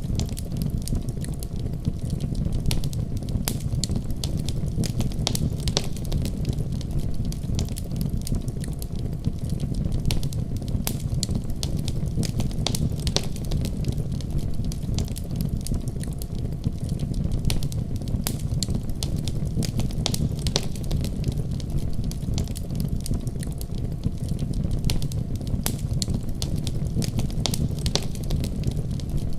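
Wood fire crackling in a fireplace: irregular sharp pops and snaps scattered over a steady low rumble.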